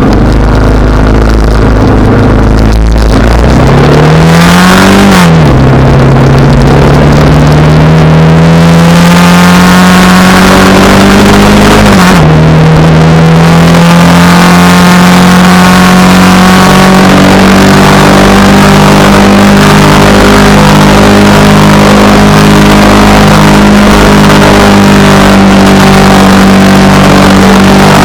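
Honda Rebel 300's single-cylinder engine accelerating, with its pitch climbing and dropping sharply at two upshifts about five and twelve seconds in. It then holds a steady cruise under heavy wind rush on the microphone.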